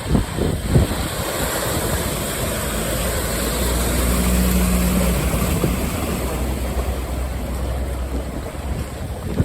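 Can-Am side-by-side driving a wet, flooded trail: engine running under a steady rushing of water and wind noise, with a few knocks in the first second.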